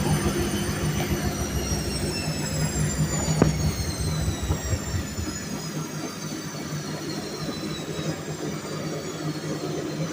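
Whirlpool washing machine with its drum spinning down: the motor's high whine tops out about a second in, then falls slowly as the spin slows, over a low hum and rumble. A single click comes a few seconds in.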